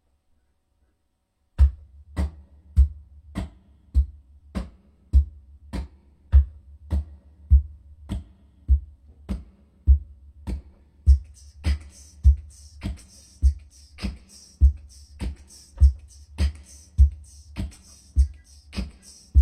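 Music: a steady drum beat with a deep bass kick on each beat, a little under two a second, starting after about a second and a half of silence. A higher hissy layer joins about halfway through.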